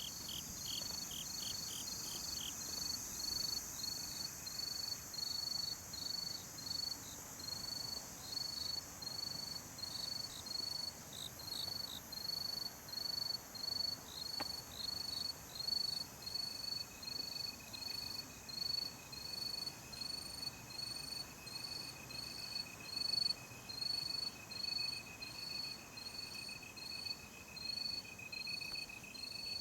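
Night insects: a cricket chirping in a steady even rhythm, about three chirps every two seconds, over a continuous high-pitched insect trill. A second, lower steady trill comes in about halfway through.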